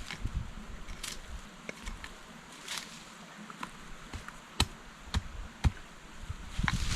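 Irregular knocks and clicks, with three sharp ones about halfway through, over a steady hiss.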